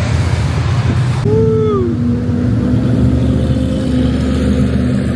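Car engine running steadily. About a second in, a held tone joins it, starting with a short falling slide.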